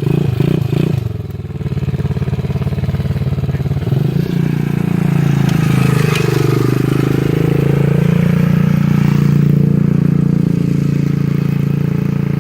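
Irbis TTR 110 pit bike's single-cylinder four-stroke engine under throttle. It is blipped a few times at the start, eases off, then revs up about four seconds in and holds high and steady, with one brief dip in pitch near the middle.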